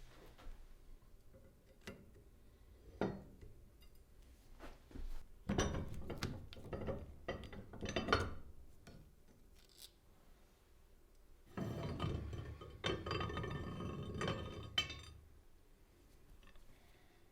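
Metal vise parts clinking and knocking against each other as they are handled, with a few sharp clicks at first and then two spells of denser rattling and scraping. The second spell has a ringing metallic tone.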